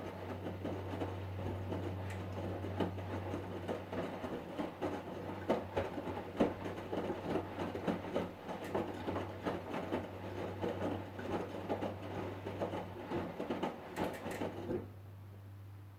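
Hotpoint Ariston washing machine running: a steady low hum under a continual irregular clatter of clicks and rattles. The clatter cuts off abruptly about fifteen seconds in, leaving a fainter hum.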